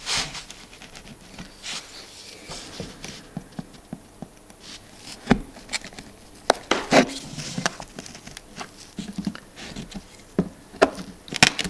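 Scattered clicks, taps and short scrapes of a lead knife prising lead came away from the edge of a leaded stained glass panel, with a few sharper knocks.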